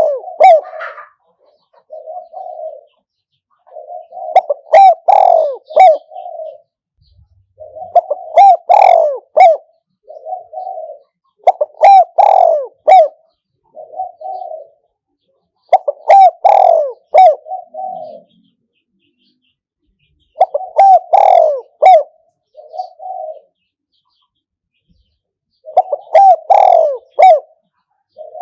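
Caged decoy spotted dove cooing its song over and over, loud and close: each phrase a quick run of coos followed by a separate short final coo, repeating about every four to five seconds.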